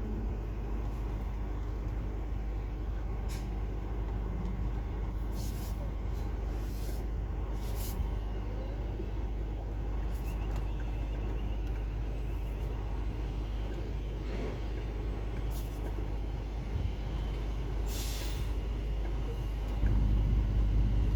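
Semi-truck's diesel engine running with a steady low rumble, with several short hisses of compressed air from the air brakes and a longer hiss near the end. The engine gets louder just before the end.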